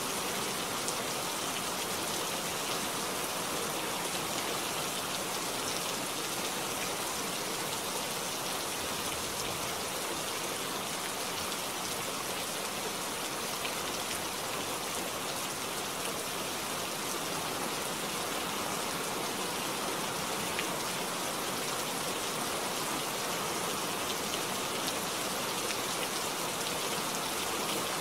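Steady rain falling on a wet street, an even hiss of drops with no break.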